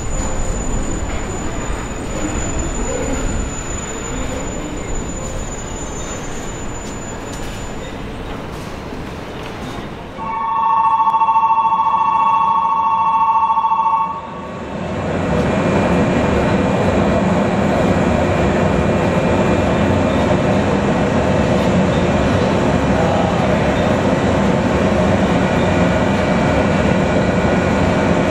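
A JR 115-series electric train rolls toward the platform, its noise fading. About ten seconds in, an electric station departure bell rings loudly and steadily for about four seconds and then stops. After it, the stopped 115-series train's onboard machinery hums steadily.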